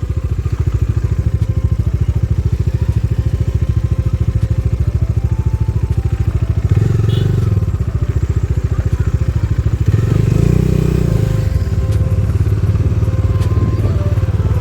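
Motorcycle engine running steadily under way, with a fast, even beat of firing pulses; the engine note swells and rises briefly twice, about seven and ten seconds in.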